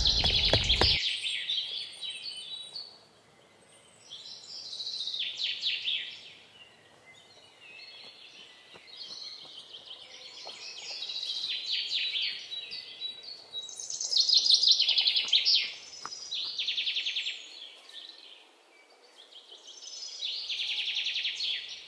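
Songbirds singing in repeated bouts of rapid, high trilled phrases, a few seconds apart. In the first second, a quick run of footsteps in sandals.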